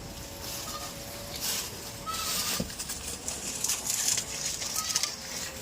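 Goats rustling and crunching, in uneven bursts of crackling noise, with a few faint short chirps.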